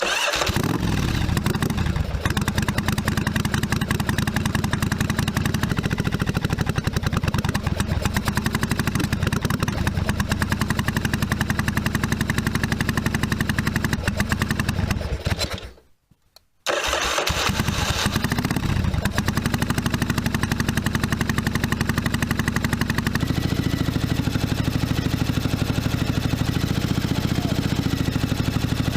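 1982 Yamaha Virago XV750's air-cooled V-twin engine running on both cylinders, just after a loose fitting behind a vacuum leak was fixed. The sound cuts out abruptly for about a second near the middle, then the engine is running again.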